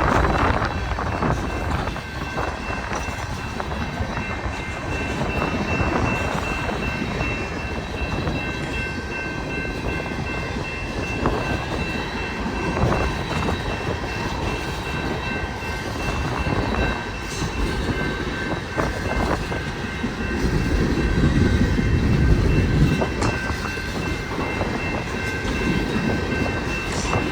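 BNSF empty coal train rolling past, its cars rattling along the rails, with high wind buffeting the microphone, loudest about twenty seconds in.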